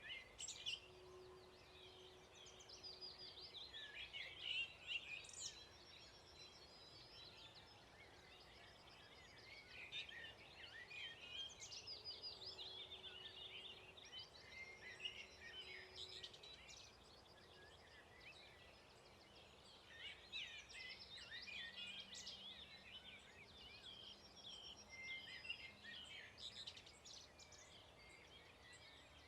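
Dawn chorus of several songbirds singing at once, with many overlapping chirps and trills, fairly faint.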